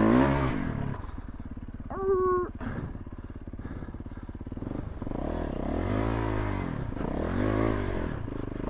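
Yamaha YZ450F's single-cylinder four-stroke engine running at a standstill with a low, lumpy beat. The throttle is blipped a few times, so the revs rise and fall back: once at the start and twice in the second half. About two seconds in there is a brief higher steady tone.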